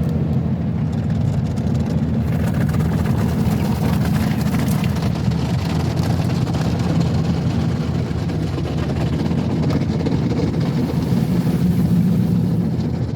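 Automatic car wash running over the car, heard from inside the cabin: a steady low rumble, with a hiss of spraying water from about two seconds in until near the end.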